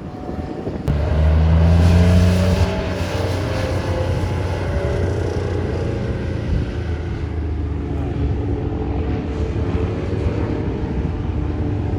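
A vehicle engine running hard as it goes past, coming in suddenly about a second in and loudest over the next two seconds, then carrying on steadily and somewhat quieter with its pitch wavering.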